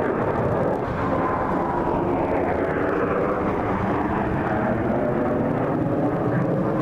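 Airplane engine noise as an aircraft passes during an air show flyby, loud and steady with a slowly falling pitch.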